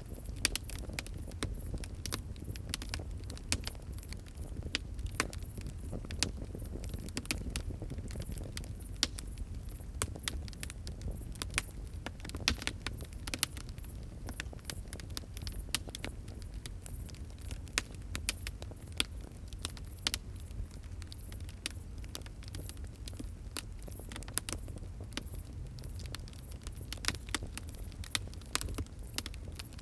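Fire crackling, with irregular sharp pops and snaps several times a second over a steady low rumble.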